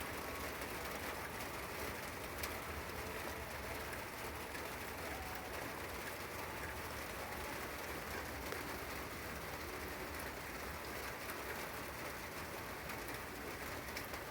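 Steady rain falling, with birds calling.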